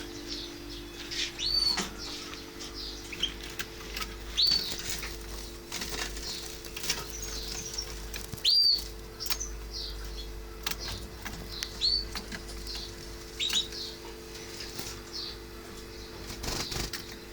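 Canary chirps: short, high arched calls repeating every few seconds, with fainter chirps and small clicks between them, over a steady low hum.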